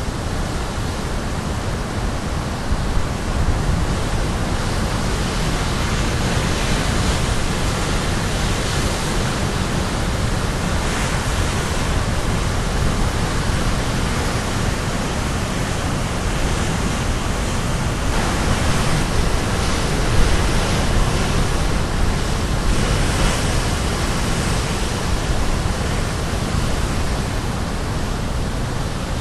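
Caribbean Sea waves crashing on the shore: a continuous rushing wash of surf with louder surges now and then.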